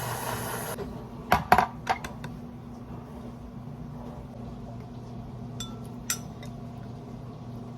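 Household items clinking and clattering, like dishes or utensils being handled: a short rushing noise that stops under a second in, a quick run of sharp clinks about a second and a half in, and two ringing clinks near the end, over a steady low hum.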